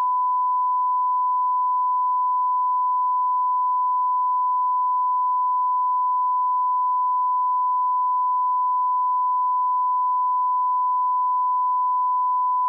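Steady 1 kHz sine-wave line-up tone at −18 dBFS, an audio test reference tone, held at a constant pitch and level.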